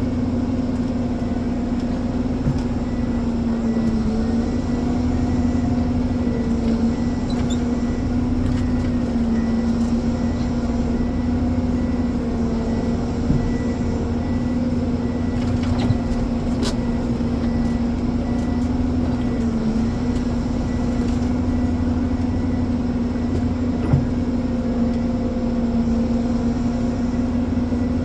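Ponsse Elephant forwarder's diesel engine running steadily, its pitch dipping briefly every few seconds as it takes load, with a few faint knocks.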